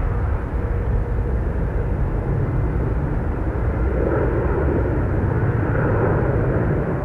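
A jet airliner's engines running close by: a loud, steady rumble that swells somewhat partway through.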